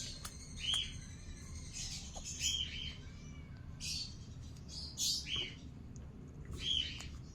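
Green-cheeked conure giving several short chirps a second or two apart while being hand-fed formula.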